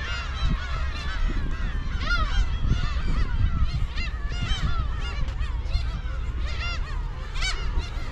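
A large nesting colony of black-tailed gulls calling, many short arched calls overlapping in a constant chorus, over a steady low rumble.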